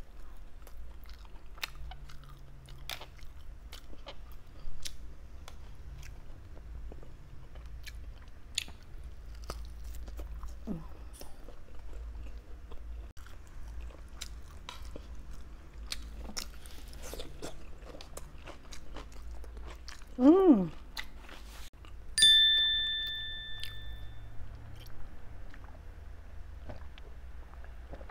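Close-miked chewing and mouth clicks of someone eating barbecued pork, with a brief voiced sound about twenty seconds in. A single clear ding sounds shortly after and fades over a second or so.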